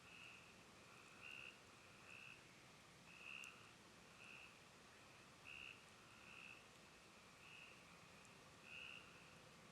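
Faint frog calling: short calls repeated about once a second, over a quiet night background.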